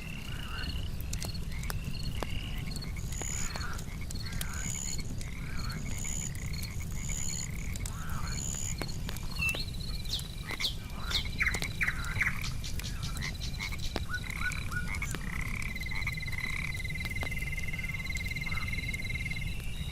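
A chorus of frogs croaking and trilling, the loudest calls about eleven to twelve seconds in and a long rattling trill near the end, over a regular high insect chirping and a few faint crackles from the campfire.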